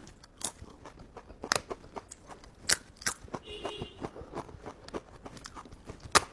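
A person eating close to the microphone: a few sharp, crisp bites and crunches at irregular intervals, with quieter chewing in between.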